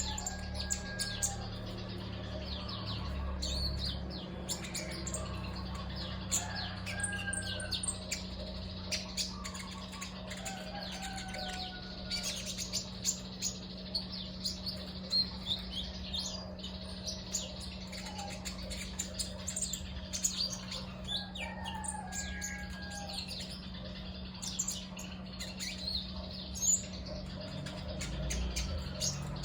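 Male konin (riwikan), a small songbird, chirping busily with sharp high notes and short whistled calls, calling to lure other birds, over a steady low hum.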